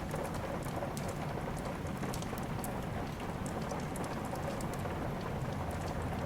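Steady rain, an even hiss over a low rumble, mixed with the faint crackle of a wood fire: scattered sharp ticks throughout.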